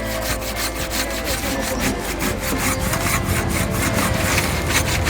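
Hand saw cutting through a log of firewood in quick, steady back-and-forth strokes, its teeth rasping on the wood.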